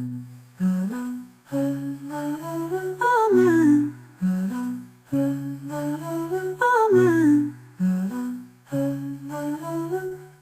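A voice humming the hymn's melody in short gliding phrases, with steady low accompaniment notes held underneath; a similar phrase comes twice.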